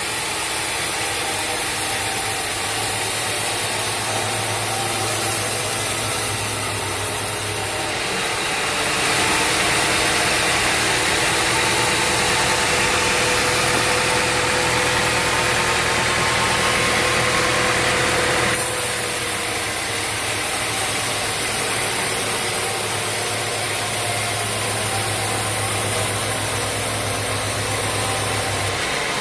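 Sawmill engine running steadily, with a louder, hissier stretch from about 8 to 18 seconds in.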